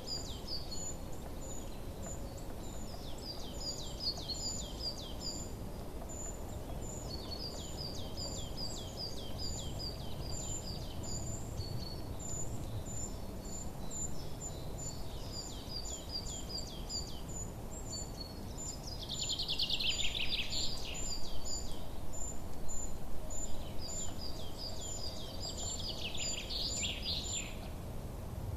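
Small songbirds chirping and singing: a steady run of short, high chirps, with quick phrases of falling notes repeated every few seconds, and a louder burst of song about two-thirds of the way through and again near the end. A steady low background rumble runs underneath.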